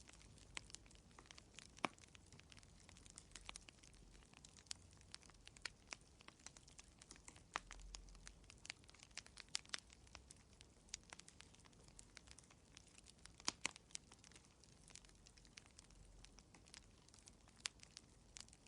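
Wood fire crackling in a fireplace: irregular sharp pops and snaps, a few louder ones standing out, over a faint low rumble.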